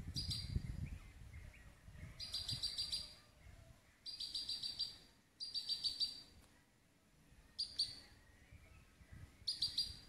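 A bird singing: short phrases of rapid, high repeated notes, six phrases about two seconds apart. A low rumble sounds under the first phrase.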